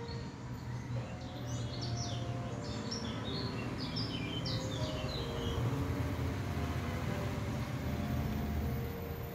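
Small birds chirping in quick runs of short high calls through the first five seconds or so, over a steady low rumble and soft held musical tones.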